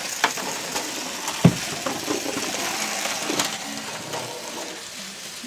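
Small battery-powered toy trucks whirring along a plastic track, with scattered plastic clicks and clatter and one sharper knock about a second and a half in.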